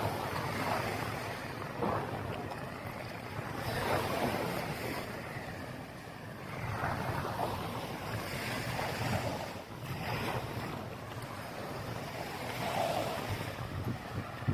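Small waves washing onto a sandy beach, the noise swelling and fading every few seconds, with wind rumbling on the microphone.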